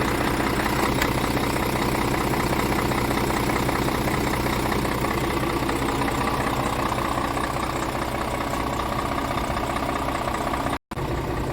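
Scania R500 tractor unit's 13-litre inline-six diesel idling steadily, briefly cut off for a split second near the end.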